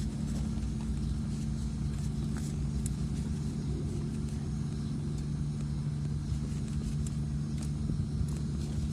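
A steady low engine rumble, like a motor vehicle running, with a few faint clicks.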